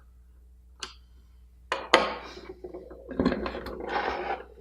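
Small hard parts of a handheld electronic thermometer being handled on a bench during reassembly: a single click about a second in, then clattering knocks and scraping, like pieces clinking against each other.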